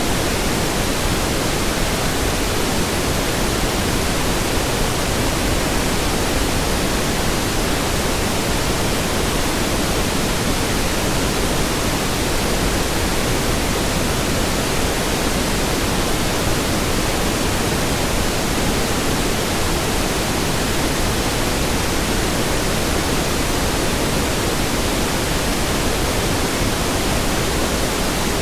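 Steady synthetic pink noise: an even hiss spread across all pitches, unchanging in level.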